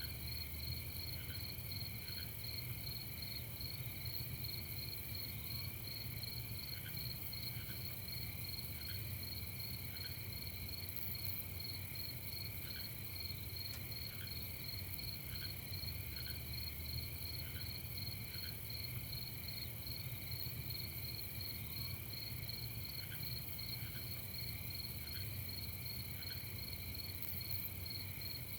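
Night-time chorus of crickets: several insects trill steadily at different pitches, the highest one finely pulsed. A lower, short chirp sounds now and then at irregular intervals, over a faint low rumble.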